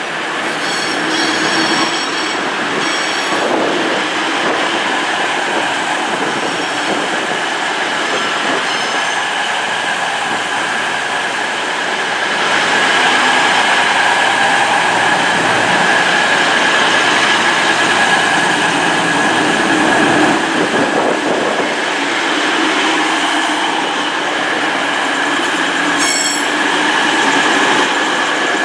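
Coupled pair of Class 222 Meridian diesel multiple units running in past the platform. Engines and wheels make a steady rumble with a constant high whine, getting louder about twelve seconds in. Short wheel squeals come near the start and again near the end.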